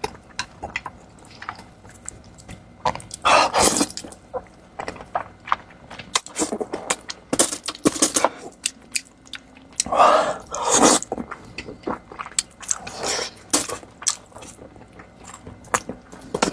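Close-miked chewing of deboned pig's trotters: many small mouth clicks, with several louder bouts of chewing.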